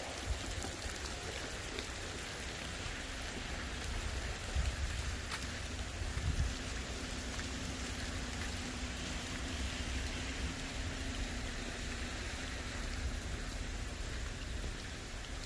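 Steady rain falling, an even hiss of drops on the ground and the surroundings, about forty minutes into the downpour.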